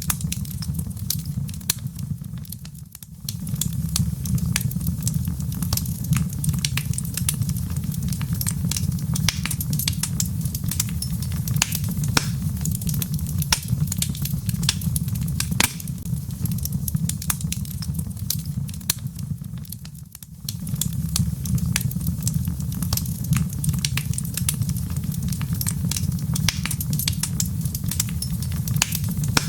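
Log fire crackling, with many sharp snaps and pops over a steady low rumble. The sound dips briefly twice, about three seconds in and about twenty seconds in.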